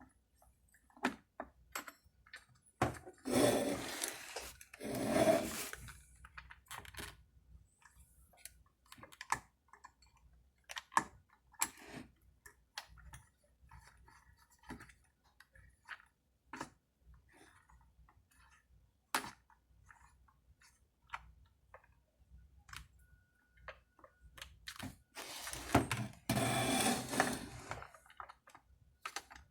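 Scattered light clicks and knocks of chainsaw parts and tools being handled during reassembly. Two longer noisy stretches of a second or two come a few seconds in and again near the end.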